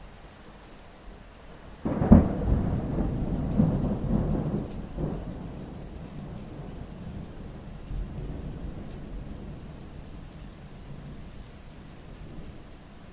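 Steady rain with a clap of thunder: a sudden sharp crack about two seconds in, then a rolling rumble that dies away over the next several seconds.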